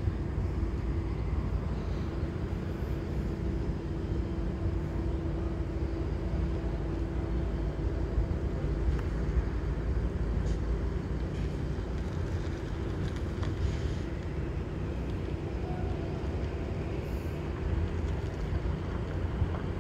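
Diesel commuter-train locomotive running steadily at low speed across the yard, a continuous low rumble with a faint steady hum in the first part.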